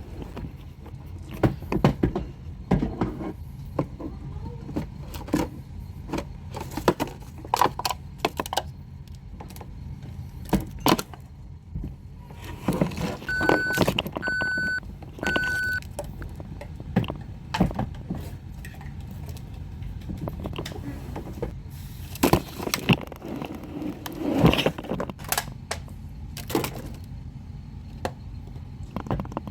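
Plastic toy trash truck being handled and played with: irregular clicks, clatters and knocks throughout, and a little under halfway through three short electronic beeps at one pitch, about a second apart.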